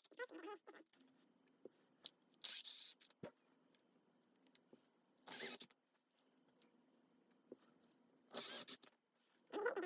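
Small metal gearbox parts being handled and slid together: a few brief scrapes and rattles a couple of seconds apart, with a sharp click a little after three seconds in.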